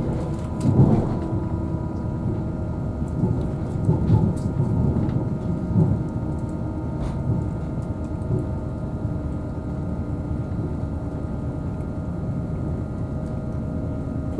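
Interior running noise of a Class 222 Meridian diesel multiple unit under way: a steady low rumble with a faint steady hum, and a few knocks and swells from the track, the strongest about a second in.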